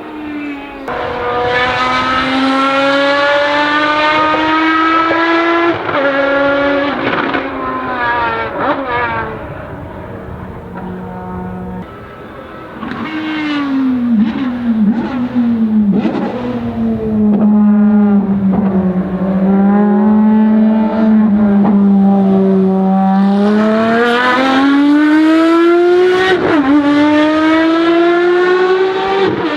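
Ferrari FXX Evo's V12 racing engine at high revs on track, unsilenced. The pitch climbs under acceleration and drops sharply at gear changes; several quick downshifts come about a third of the way in. It then holds a steady lower note before climbing again near the end.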